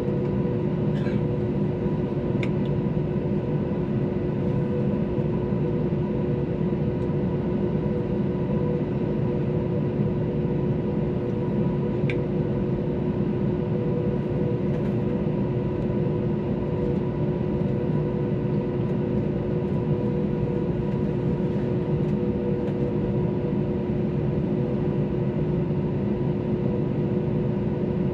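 Airbus A321-231 cabin noise from its IAE V2500 turbofans and airflow: a steady low rumble with a few fixed humming tones above it, and a couple of faint clicks.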